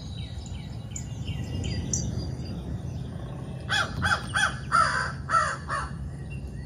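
A crow cawing about six times in quick succession, after a smaller bird's run of short, high, falling chirps, over a steady low background rumble.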